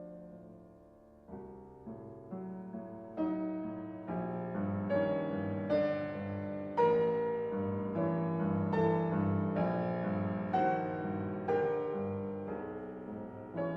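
Solo piano playing a slow, sustained piece, with chords struck about once a second. It builds from soft to its loudest about seven seconds in, then eases a little.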